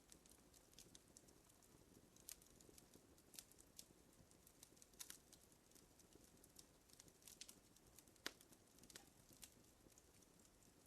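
Faint wood-fire crackling: irregular small pops and snaps over a soft hiss, with one sharper snap about eight seconds in.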